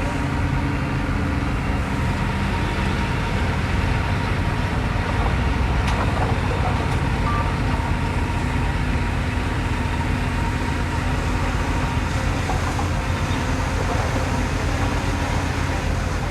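Heavy earthmoving machinery's diesel engine running steadily, with the sound concentrated in the low end.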